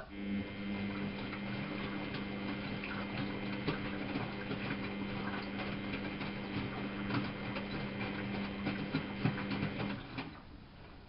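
Miele Novotronic W830 washing machine drum turning: a steady motor hum with laundry and water splashing and clicking inside the drum, starting abruptly and stopping about ten seconds in, as in the machine's turn-and-pause wash rhythm.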